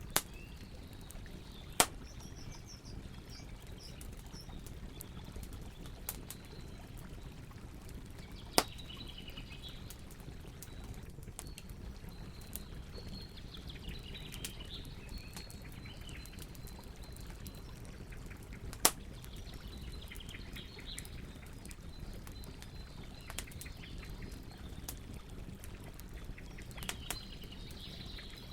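Campfire crackling over a steady low rush of flames, with a few loud, sharp pops spread through. Birds chirp in the background.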